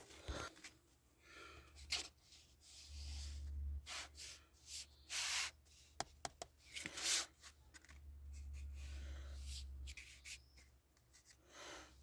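Rubbing and handling noises with scattered clicks and scrapes, and a low rumble twice.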